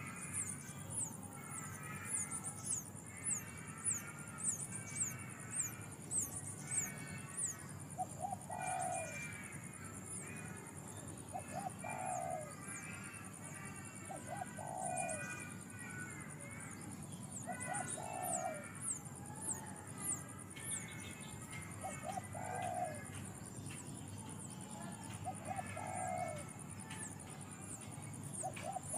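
Wild birds calling: a low, cooing call repeats about every three seconds from about eight seconds in, over busier chirping and fast, very high, falling notes.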